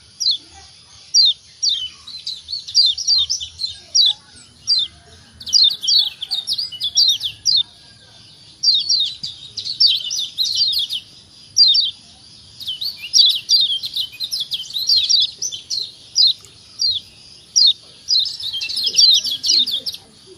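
Lombok yellow white-eye (kecial kuning) giving its 'ciak' call: quick runs of short, high, downward-sliding chirps, some clusters rapid and dense, with brief pauses between runs.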